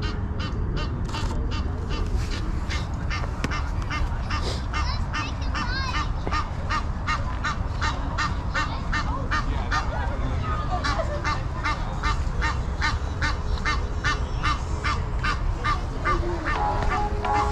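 A goose honking over and over in a steady run of short calls, about three a second, over a constant low rumble. Music comes in near the end.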